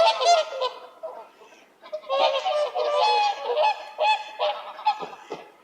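A flock of waterfowl calling: many short, overlapping pitched calls in quick clusters, with a brief lull about a second in.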